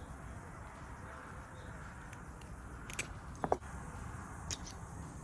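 A few small, sharp clicks from the parts of a pickup door lock cylinder being worked by hand while its wafers are taken out, over a faint steady hiss.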